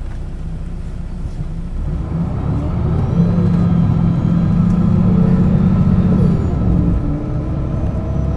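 1996 Setra S 315 UL city bus engine under way, pulling harder and louder from about two seconds in. It holds a strong steady note, then eases back around six and a half seconds in.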